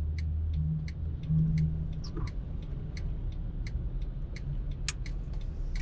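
Car in slow traffic, heard from inside the cabin as a low steady rumble, with the turn-signal indicator ticking evenly about three times a second.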